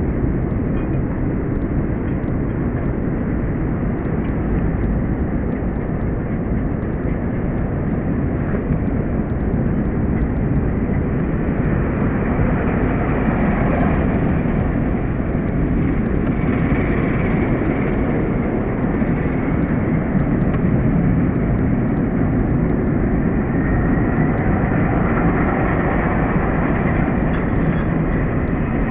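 Helicopter in flight: a steady rotor and engine din, with a faint higher whine coming in around the middle and again near the end.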